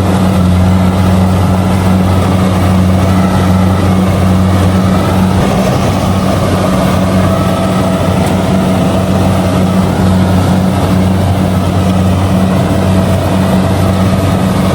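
Kubota DC70G combine harvester running steadily, its diesel engine holding a constant low drone under a dense layer of machinery noise.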